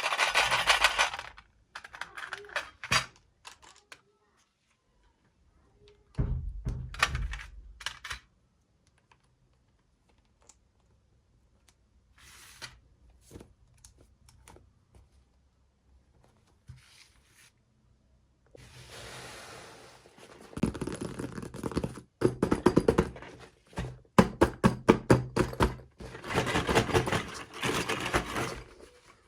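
Toy packaging and small plastic toy pieces being handled: bursts of rustling with sharp clicks and light knocks, broken by quiet gaps, and a busier run of rapid clicking and rustling in the last ten seconds.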